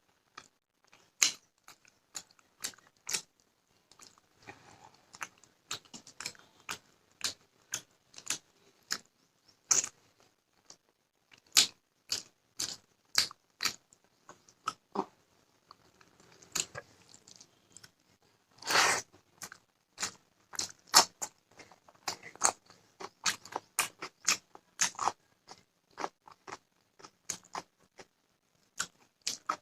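Close-miked chewing and crunching of food, a person eating rice, fish and raw cucumber and onion, with irregular sharp crunches and mouth clicks throughout. One longer, louder crunch or rustle comes a little past the middle.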